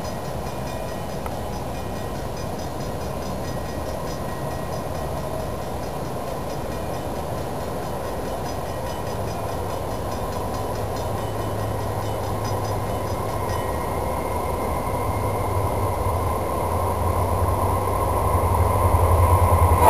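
An approaching freight train led by SOO Line diesel locomotives, a low engine drone and rumble growing steadily louder as the train nears. The drone strengthens from about halfway through.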